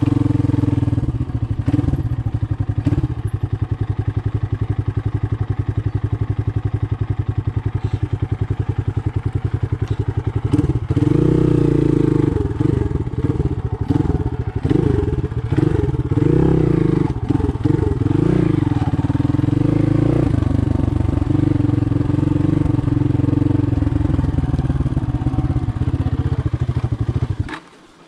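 Motoland Legend 300 motorcycle engine running under way: steady revs for about the first ten seconds, then the revs rising and falling again and again with the throttle. The sound drops out briefly near the end.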